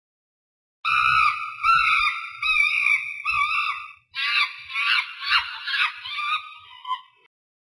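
Chimpanzee calling: a run of high, wavering screams, then after a short break a faster, pulsing run of shrieking calls that stops abruptly.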